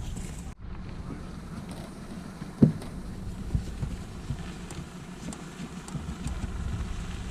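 Wind and water noise on a small fishing boat, a steady low rumble with small knocks, and one sharp knock about two and a half seconds in.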